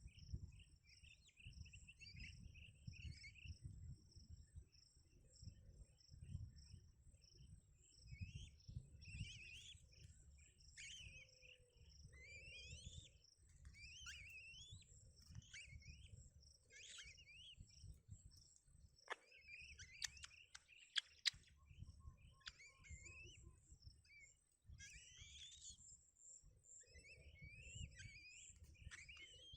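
Small birds chirping softly, a run of short cheeps that rise and fall in pitch, over a faint low rumble and a steady thin high tone. A few sharp clicks come about twenty seconds in.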